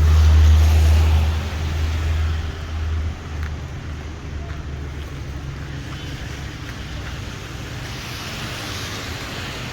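A motor vehicle's engine rumbles loudly close by for the first three seconds, then fades away. Underneath runs a steady hiss of rain and wet street traffic.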